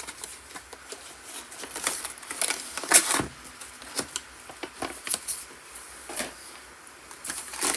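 Plastic and cardboard packaging of a model train car being handled by hand during unboxing: irregular crinkling and clicking, the loudest crackle about three seconds in.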